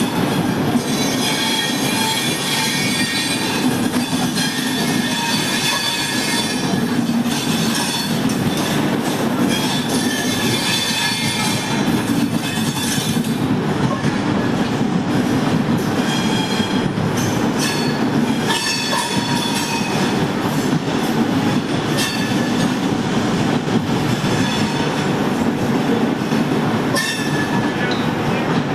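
Passenger train running along the track: a steady heavy rumble, with high metallic wheel squeal coming and going over it.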